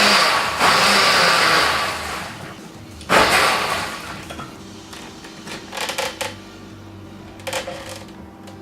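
Countertop blender running on a thick mash of a sub sandwich and potato chips, with a brief dip before it cuts out about two seconds in. About three seconds in comes a short loud burst, then only a few faint knocks and clicks.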